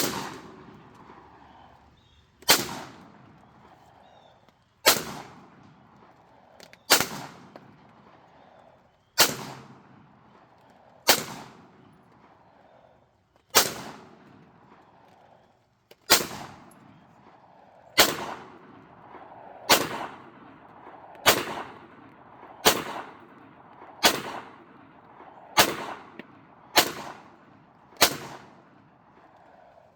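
Beretta M9 9mm pistol fired about sixteen single shots, a second or two apart, the pace quickening toward the end.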